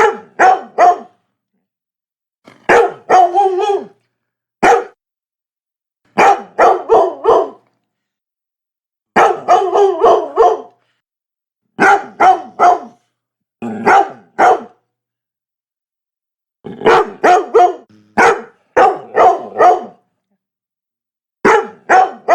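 Labrador barking in quick runs of two to five sharp barks, with silent gaps of a second or two between runs.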